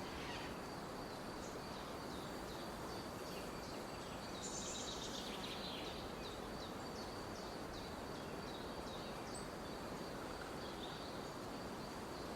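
Forest ambience: birds giving many short, repeated chirps over a steady hiss, with a thin, steady high tone running underneath. A brighter flurry of calls comes about four to five seconds in.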